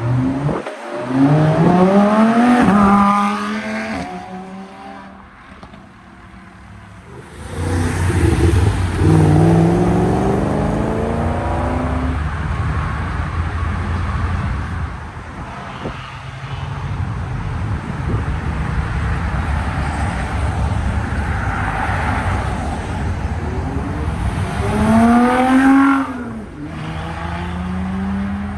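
Car engines revving, climbing in pitch three times over a steady engine rumble; the last rev, near the end, is the loudest.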